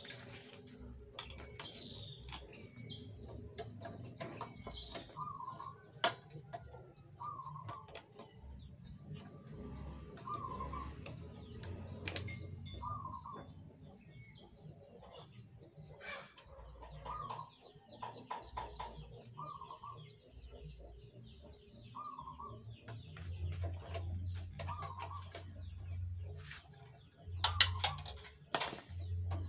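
A bird calling in short repeated notes, about one every second or two, faint. There are scattered clicks and knocks of metal parts being handled, louder near the end.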